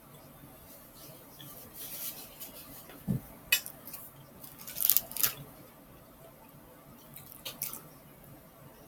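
Tableware clinking and tapping: a handful of sharp clicks and knocks, bunched together a few seconds in, with one softer thump among them and a couple more clicks near the end.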